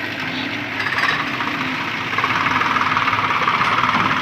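Tractor engine running with a rough, rapid knocking pulse, getting louder about two seconds in.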